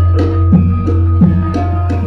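Javanese gamelan ensemble playing wayang music: struck bronze metallophones ringing held notes over a deep, steady low tone, with regular strokes about three a second.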